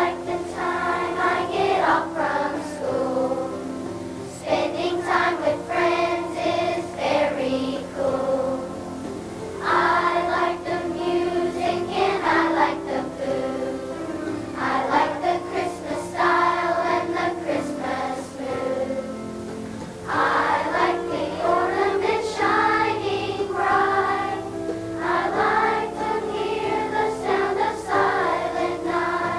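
Elementary-school children's choir singing an easygoing country-style Christmas song in phrases, with instrumental accompaniment.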